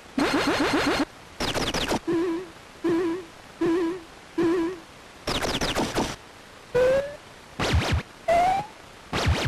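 Synthesized electronic sound effects from a 1980s interactive dealer-kiosk laserdisc menu: about a dozen short bursts with gaps, mixing rapid chirps, warbling beeps and short rising glides.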